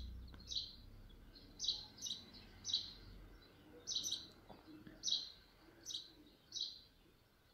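A small bird chirping repeatedly: short, high chirps coming roughly once a second, some in quick pairs.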